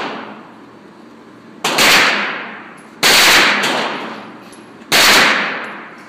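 Three shots from a Taurus Judge revolver firing .45 Long Colt, spaced about a second and a half apart, each echoing and trailing off over about a second.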